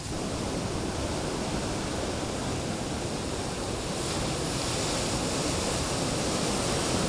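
Ocean surf washing in steadily, swelling a little about four seconds in.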